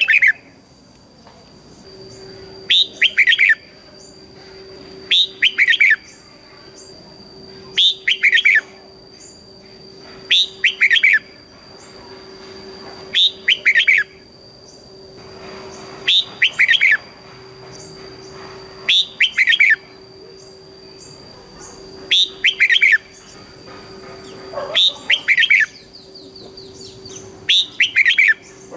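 Red-whiskered bulbul singing short, loud, repeated song phrases, each about a second long and coming every two to three seconds, with faint steady tones behind.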